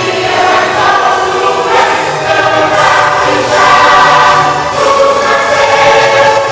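Church choir singing a Christmas cantata song with instrumental accompaniment, long held notes changing pitch every second or so.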